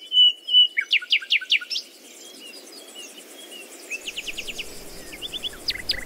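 Birds singing: a held whistled note at the start, then a quick run of sharp sweeping chirps that is the loudest part, followed by softer twittering and short rapid runs of notes about four and five and a half seconds in, over a faint steady hiss.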